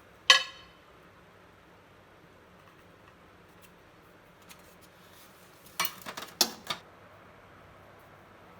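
Hard kitchen items clinking as microwave accessories are handled. One sharp ringing clank comes just after the start. About six seconds in there is a quick run of four or five clatters.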